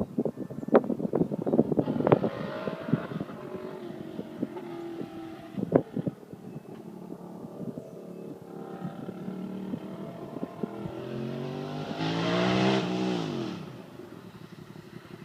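Honda RC51's 90-degree V-twin running with no mufflers on its open exhaust: a burst of sharp cracks in the first two seconds and another near six seconds, a steady idle, then a single rev rising and falling about twelve seconds in.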